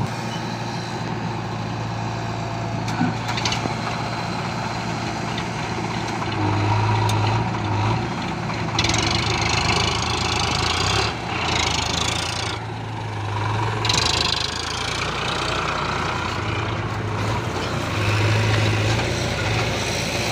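Eicher 551 tractor's diesel engine running under load while pulling a loaded trolley, its steady low hum shifting slightly in pitch, with two stretches of hissing noise about nine and fourteen seconds in.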